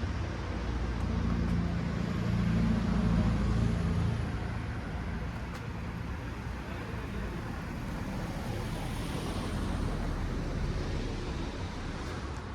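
City street traffic: a motor vehicle's engine swells close by in the first few seconds and fades, leaving a steady hum of road noise.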